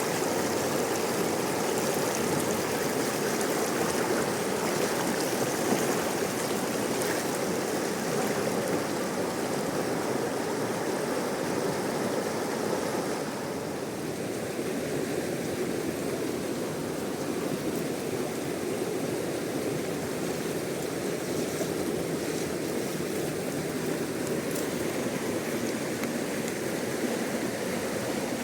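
Fast mountain river rushing steadily, a dense even roar of water that eases slightly a little under halfway through.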